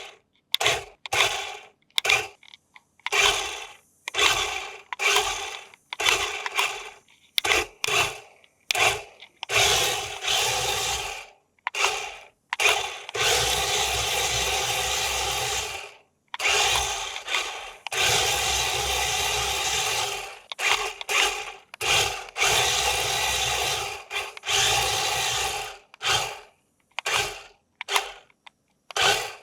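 Small electric motor of a remote-control toy whirring in many short bursts, with three longer steady runs of a few seconds each.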